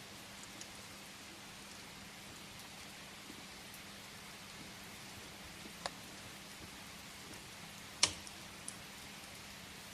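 Steady rain hiss with a few sharp crackles from burning firewood: a small pop near six seconds, a loud pop about eight seconds in, and a smaller one just after.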